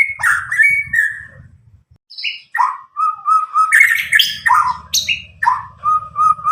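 White-rumped shama of the Medan type, a young bird about nine months old just out of its spotted juvenile plumage, singing loud, clear song: a run of quick varied phrases, a pause of about a second, then more phrases ending in a series of repeated level whistles.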